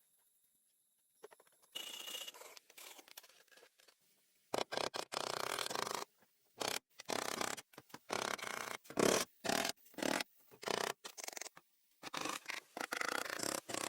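Scraping and rubbing in a run of short bursts, each starting and stopping abruptly.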